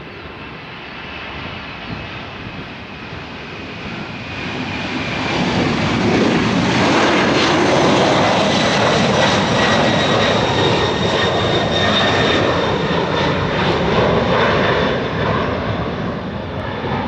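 Jet aircraft passing close overhead. Engine noise builds over about five seconds to a loud, steady level with a high whine through it, then eases slightly near the end.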